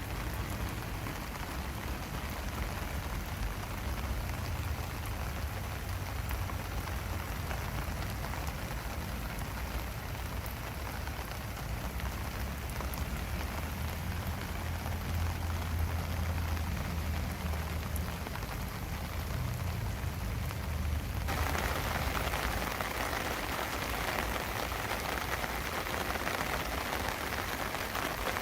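Steady rain falling, with a low rumble underneath. About 21 seconds in, the sound changes abruptly to a brighter, hissier patter of rain.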